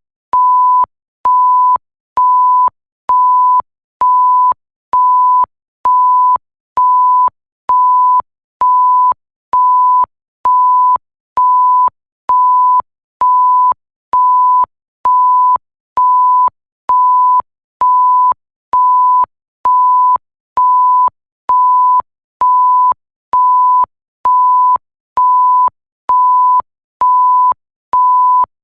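Electronic bleep sound effect: a single steady pure beep tone pulsing on and off at an even pace, about once a second, each beep lasting a little over half a second with a short gap, and a faint click at each start and stop.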